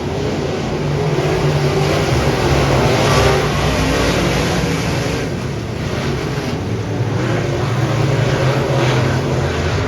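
Dirt modified race car engine running hard at racing speed. The revs ease briefly about halfway through, then build again.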